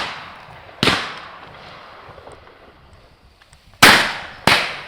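Shotguns firing at driven game birds: a shot about a second in and two more close together near the end, each trailing off in a long fading echo.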